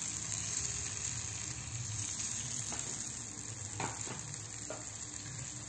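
Takoyaki batter frying in oil in a takoyaki pan: a steady sizzle, with a few faint clicks around the middle.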